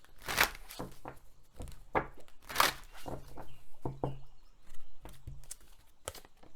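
Oracle cards being handled and shuffled: an irregular run of sharp slaps and snaps of card stock, one or two a second.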